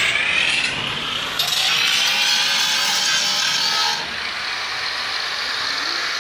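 Electric power tool working wood: a motor whine over a dense rasping cutting noise, which changes sharply about one and a half seconds in and again about four seconds in.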